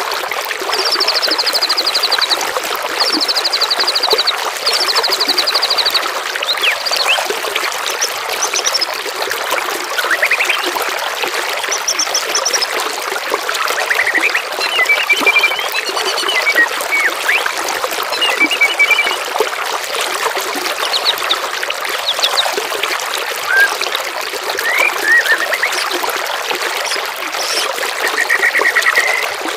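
Steady trickling water with songbirds calling over it: four short, fast, high trills in the first six seconds, then scattered chirps and whistles.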